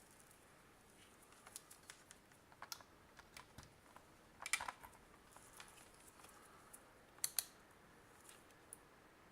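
Scattered light clicks and taps of a plastic handheld multimeter being handled, with a louder cluster about halfway through and two sharp clicks close together near the end.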